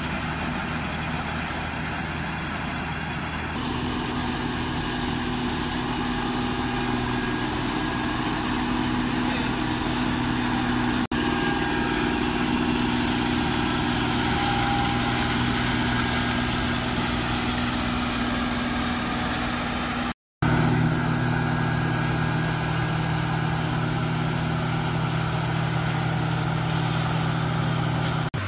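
New Holland 8080 combine harvester running steadily, a continuous engine and machinery drone that shifts in pitch a few times, with a brief total dropout about twenty seconds in.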